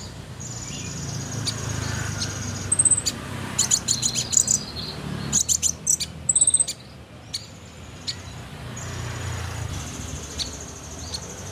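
Caged songbirds singing: high, thin trills, one held for about two seconds near the start and another near the end, with quick sharp chirps and rattling notes in between.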